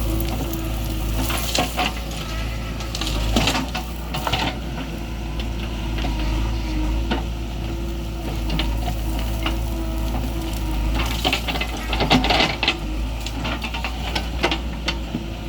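JCB 3DX backhoe loader's diesel engine running steadily, with bursts of gritty rattling and scraping a second or two in, around three to four seconds in, and again, loudest, at about eleven to thirteen seconds in.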